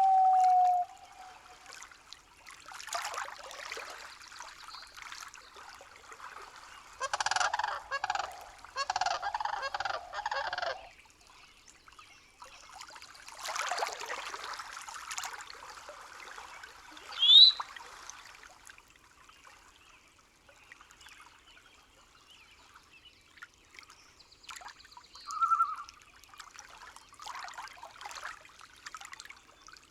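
Night-forest nature ambience: a steady tone fades out just under a second in, then scattered animal calls over a faint background. A four-second run of repeated calls comes about seven seconds in, a quick, loud rising whistle about seventeen seconds in, and a short note near twenty-five seconds.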